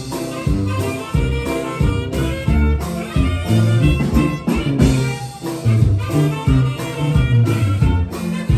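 Live orquesta ranchera band playing an instrumental passage: saxophone and brass melody over a tuba bass line and a steady dance beat, with no singing.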